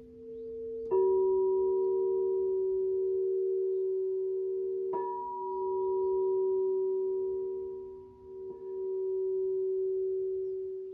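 Crystal singing bowls struck twice, about a second in and again near the middle, with a faint third tap later. Their long, pure ringing tones overlap and slowly swell and fade against each other.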